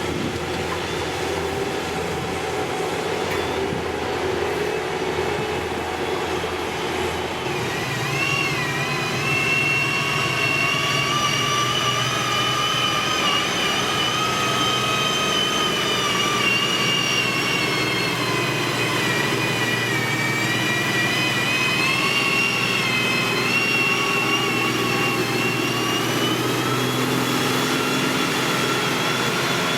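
Heavy diesel road-construction machinery running steadily. From about eight seconds in a high whine joins the engine noise and drifts slowly up and down in pitch.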